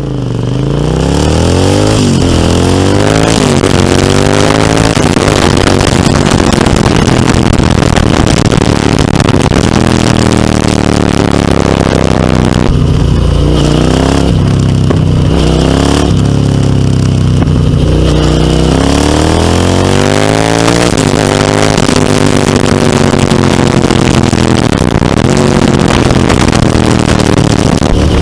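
Suzuki SV650's V-twin engine through a MIVV Storm Oval slip-on exhaust, accelerating with its pitch rising, then dropping at each gear change, over and over. A loud rushing noise covers much of the engine note.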